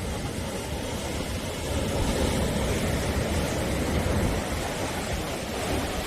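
Sea surf washing continuously onto the shore, swelling a little about two seconds in and easing toward the end.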